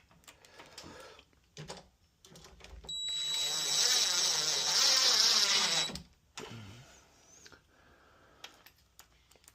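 A few light clicks, then a cordless drill runs steadily for about three seconds with a high whine over its motor noise and stops suddenly.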